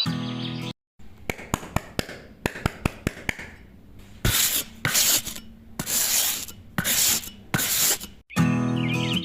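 Hand work on craft materials: a run of light clicks and taps, then about five rasping rubbing strokes, as in sanding or filing by hand. Background music with bird calls plays briefly at the start and again near the end.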